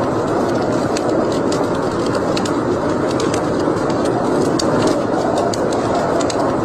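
Wood fire burning in a fireplace: a steady rushing noise with frequent small, irregular crackles and pops.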